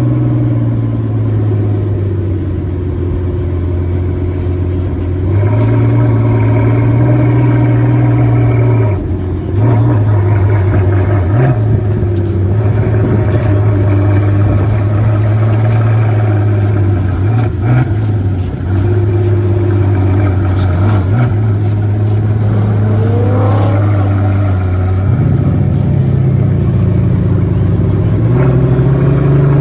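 Pagani Huayra BC's twin-turbo V12 running at a raised cold-start idle. The idle speed steps up and down several times, with a few brief dips in the middle.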